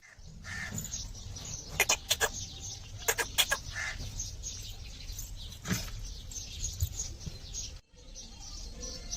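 Pigeon wings flapping: two quick runs of sharp wing claps, one about two seconds in and another about a second later, with a few softer flaps after.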